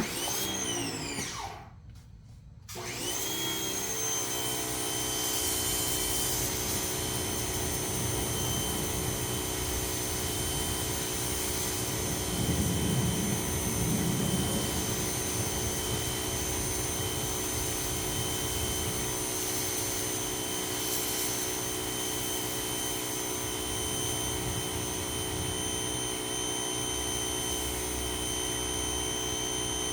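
Ryobi 2000 psi electric pressure washer: the motor spins up with a rising whine and cuts out after a second or so, then spins up again and runs steadily with a high whine while it sprays.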